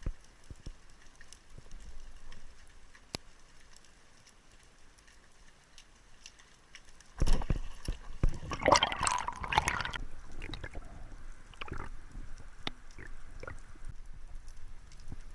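Water splashing and bubbling, starting suddenly about seven seconds in and lasting about three seconds, with faint scattered clicks before and after.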